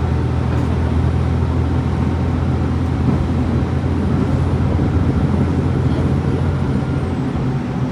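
The KiHa 40 diesel railcar's DMH17H engine, an eight-cylinder horizontal diesel, running with a steady drone. Its note shifts slightly near the end.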